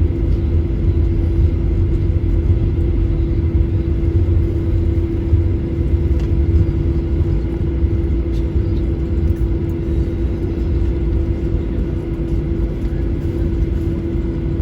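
Boeing 737-800's CFM56-7B jet engines running, heard as a steady low rumble with a constant hum over it.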